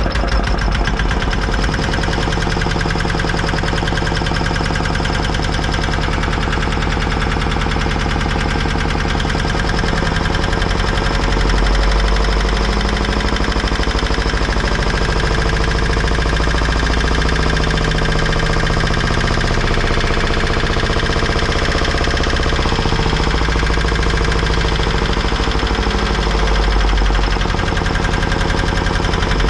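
Antique diesel generator running steadily with a fast, continuous rattle, which the owner thinks doesn't sound healthy.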